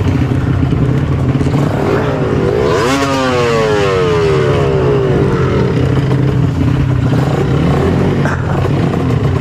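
Trail motorcycle engine running, revving up sharply about three seconds in and winding down over the next two seconds, then running on at low revs.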